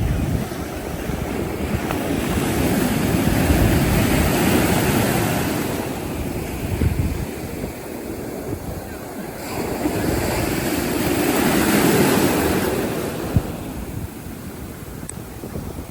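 Ocean surf breaking and washing up the beach, swelling twice, about four seconds in and again near twelve seconds, with wind buffeting the microphone.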